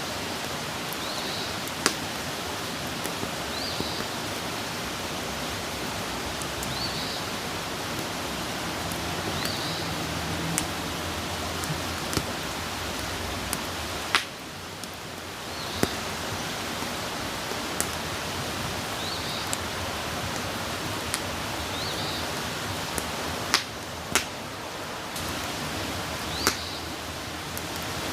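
Wood campfire burning: a steady hiss with irregular sharp crackles and pops, a few of them louder.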